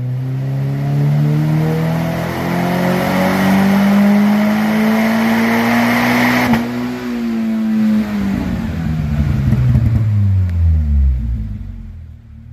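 Subaru BRZ / Toyota GR86 2.4-litre flat-four through a COLBASSO Ti-R Plus titanium single-tail exhaust, revving up under full throttle in one long pull during a power test. Its pitch climbs steadily for about six seconds, then falls as the revs wind back down.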